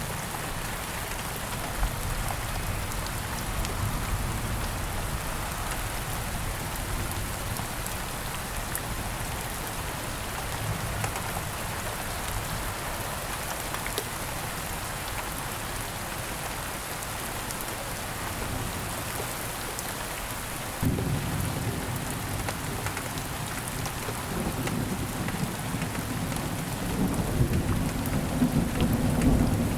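Steady gentle rain with scattered sharp drips. About two-thirds of the way through, a low rumble of thunder comes in suddenly and builds toward the end.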